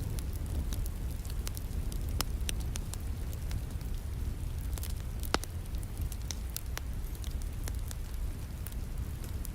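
Wood fire crackling in a fireplace, with irregular sharp pops, the loudest about two and five seconds in, over a steady hiss and low rumble of falling rain.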